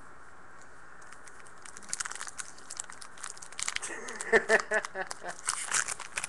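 Foil trading-card pack wrapper crinkling and tearing as it is opened by hand. The crackling starts about a second and a half in and runs on as a dense, irregular patter.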